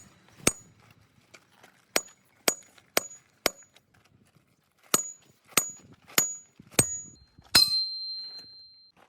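Hammer blows on steel: about ten sharp metallic strikes in two runs, roughly two a second, with a short pause between the runs. The last blow leaves a clear high ring that hangs on for over a second.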